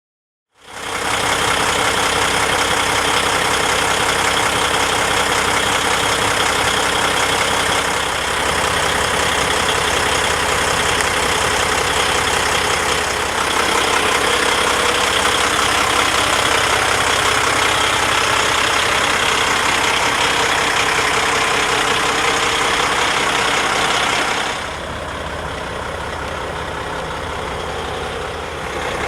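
2012 Peterbilt 389's PACCAR MX diesel engine idling steadily, quieter and duller from about 24 seconds in.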